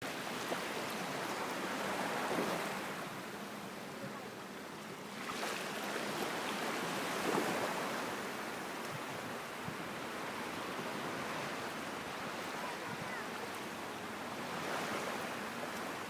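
Sea waves washing onto a beach, a continuous rush of surf that swells and eases several times.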